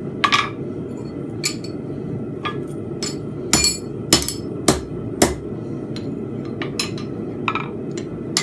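Blacksmith's hammer striking a steel bar on an anvil while bending the hook of a forged fence peg: about nine sharp metal blows at uneven spacing. A steady low rushing noise runs underneath.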